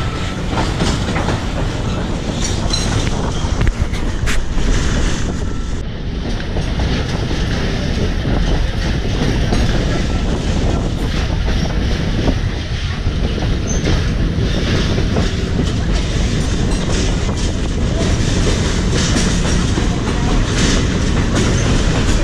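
Passenger train cars rolling along the track, heard from an open-air car: a steady rumble of wheels on rails with scattered clicks and rattles.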